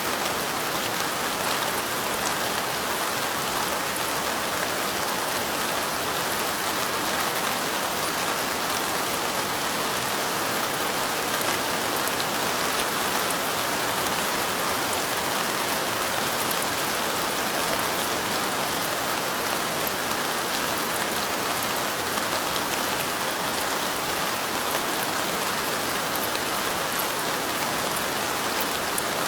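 Steady light rain falling, drops hitting window glass in an even, constant rustling hiss with no let-up.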